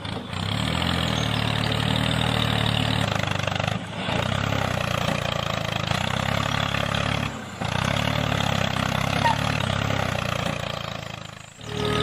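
Tractor engine running steadily with a low, even drone. It drops out briefly about four and seven and a half seconds in, then fades away just before the end.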